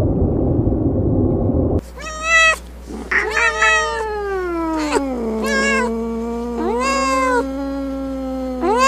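Domestic cat meowing: several short meows, then one long drawn-out yowl that falls in pitch and is held low, with a last rising meow near the end. Before the meows a loud low rumbling noise cuts off abruptly about two seconds in.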